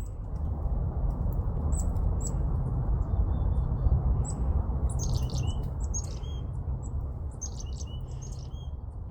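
Chickadee calls: a few short high chirps, then two bursts of a chick-a-dee call, high notes followed by lower ones, about five seconds in and again near the end, over a steady low rumble.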